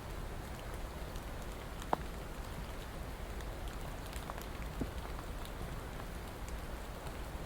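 Steady rain falling, a continuous hiss with scattered individual drops ticking close by, one sharper drop about two seconds in.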